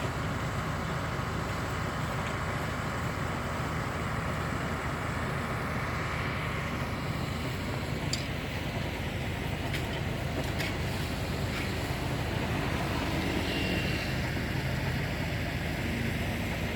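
Heavy diesel machinery running steadily, with a few light clicks and knocks over the top.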